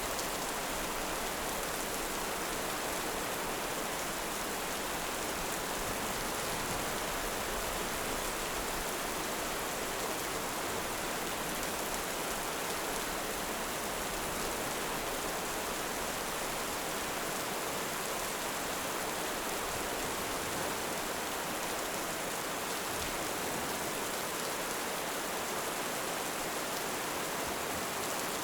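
Steady heavy rain: an even, unbroken hiss at a constant level, with no thunder claps or fire crackles standing out.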